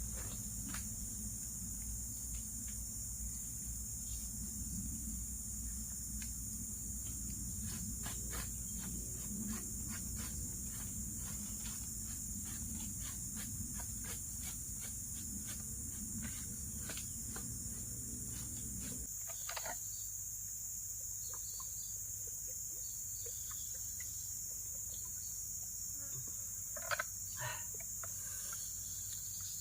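Steady, high-pitched drone of an insect chorus, with scattered small clicks and knocks. A low rumble underneath stops abruptly about two-thirds of the way through.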